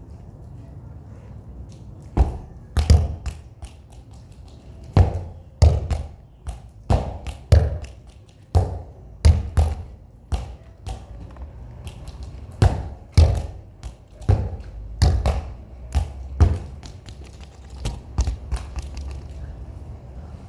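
Football being kicked and bouncing off a wall and the ground: a long, irregular run of loud thuds that starts about two seconds in.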